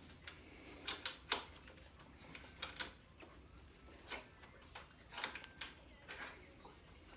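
Irregular light clicks and knocks, about a dozen, from clamps and tools being handled while a glued knife handle is clamped tight.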